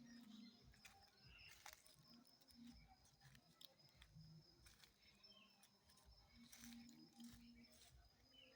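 Near silence: faint outdoor ambience with a few scattered faint clicks and short faint chirps.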